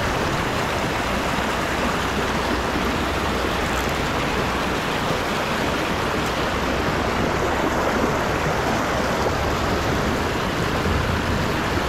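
Steady rushing of flowing canal water, even and unbroken throughout.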